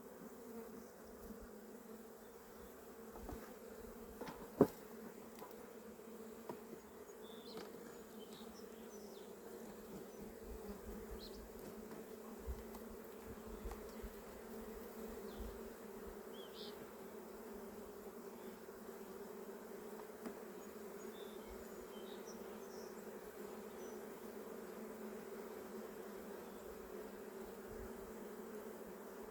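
Steady hum of honeybees flying around an opened hive, from a colony the beekeeper finds grouchy on a cool spring day. A few light taps, with one sharp click about four and a half seconds in.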